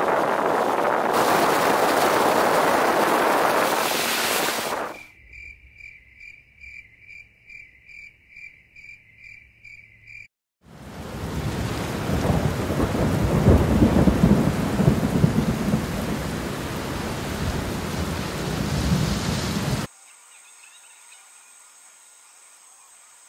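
Heavy tropical rain with rumbling thunder, the loudest part, beginning abruptly about ten seconds in and cutting off abruptly near the end. Before it come a steady rushing noise of wind on the river and a high, pulsed animal call repeating about twice a second. After it only a faint steady background remains.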